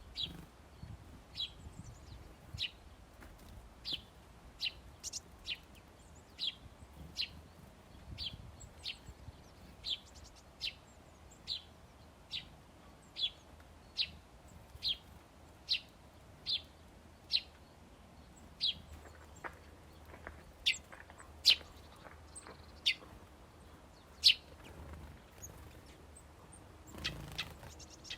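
A small bird calling a steady series of short, high chirps, about three every two seconds, with a few louder chirps in the latter part.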